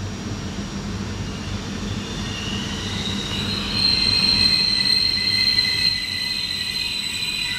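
Trenitalia regional train of Media Distanza coaches with an E464 electric locomotive at the rear rolling past as it brakes into the station. There is a steady rumble of wheels on rail, and a high-pitched squeal grows louder about three seconds in.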